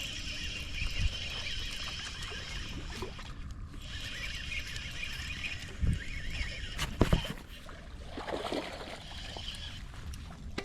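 Fishing reel being cranked with a steady whirr as a hooked crappie is reeled in, with a few knocks from handling the rod and fish about six and seven seconds in.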